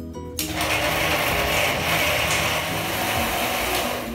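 Electric mixer grinder (mixie) running in one continuous burst, grinding bread, curd, coarsely ground sabudana, makhana and peanuts. The motor starts about half a second in and stops near the end.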